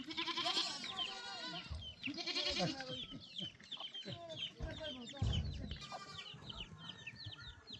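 Farm animals calling together: goats bleating among chickens clucking, with many short high chirps overlapping throughout.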